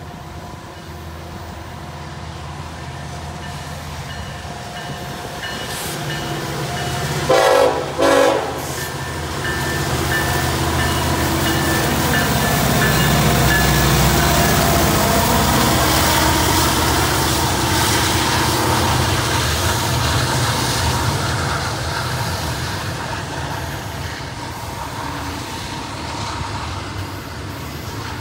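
Union Pacific SD70ACE diesel locomotive approaching and passing at the head of an intermodal stack train, its engine loudest as it goes by. About seven seconds in it gives two short horn toots in greeting. The double-stack container cars then roll past with steady wheel noise.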